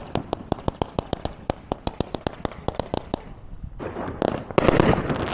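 Fireworks going off in a rapid run of sharp cracks, several a second. About four seconds in it turns into a denser, louder crackle and hiss.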